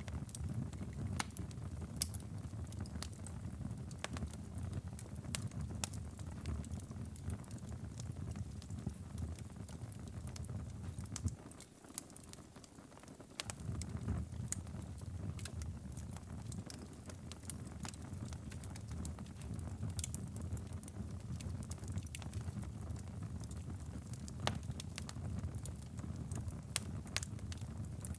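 Wood fire in a fireplace crackling, with scattered sharp pops over a low steady rumble. The rumble drops away for about two seconds near the middle.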